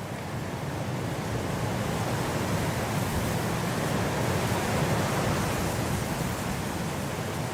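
Blizzard wind blowing in a steady rush of noise, a gust swelling to a peak about five seconds in and easing a little after.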